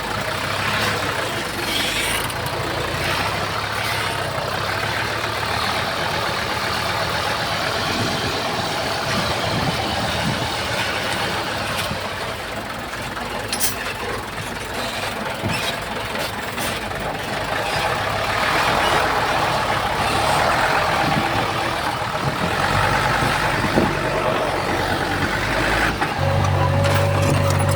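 Diesel engine of a Komatsu D31P crawler bulldozer running steadily while it pushes soil, with occasional sharp knocks. Near the end a deeper, louder engine hum comes in.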